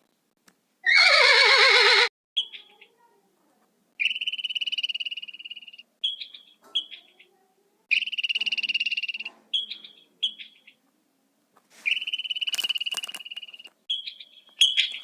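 An animal calling: one loud, lower, wavering call, then a run of high-pitched, rapidly pulsed trills, three of them about two seconds long, with short chirps in between.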